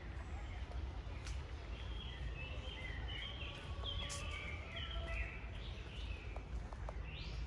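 Songbirds chirping and singing in short, overlapping phrases over a steady low rumble, with a few faint clicks.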